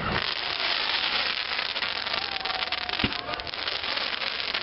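Fireworks crackling, many small rapid pops, with one sharper bang about three seconds in.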